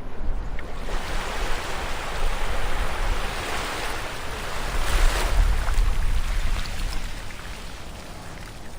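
Ocean waves washing on a shore: a wave builds, breaks loudest about five seconds in, and draws back near the end.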